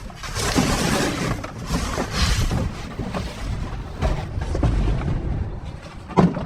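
Debris being shoved and shifted around inside a metal dumpster: continuous rustling and scraping with heavy low thuds, and a sharp knock near the end.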